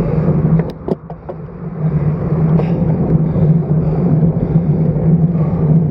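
Wind rushing over the microphone of a bicycle-mounted action camera as the road bike rides along, a loud steady rumble. It drops away briefly about a second in, with a few sharp clicks, then comes back.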